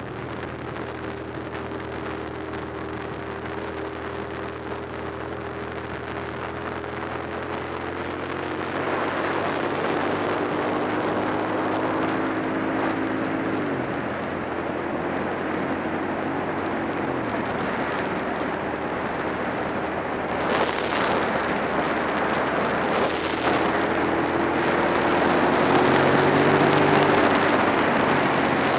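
Suzuki SV650's 645 cc V-twin engine running while riding, its note shifting in pitch a few times, under heavy wind rush on the microphone that grows louder about a third of the way in.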